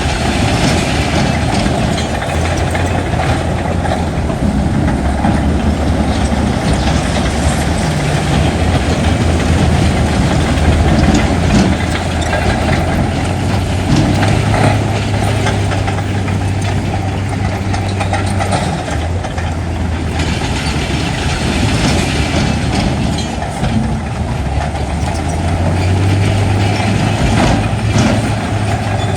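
Heavy diesel earthmoving machinery running steadily, with scattered clanks and rattles. The engine pitch steps up a little about halfway through and again near the end.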